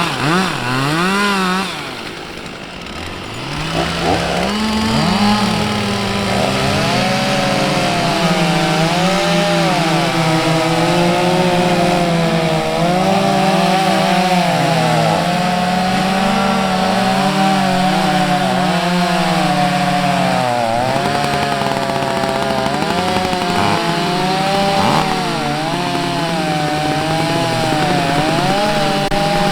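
Two-stroke chainsaw revving in short blips, then held at full throttle for most of the stretch. Its pitch sags and recovers repeatedly as it cuts through wood.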